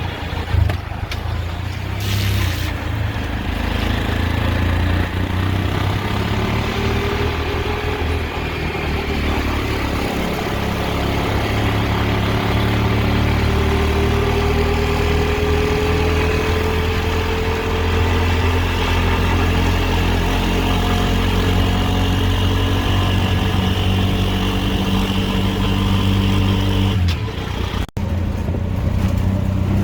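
A road vehicle's engine and road noise, with the engine pitch rising and falling as it accelerates and changes speed. Near the end the sound cuts off abruptly for a moment.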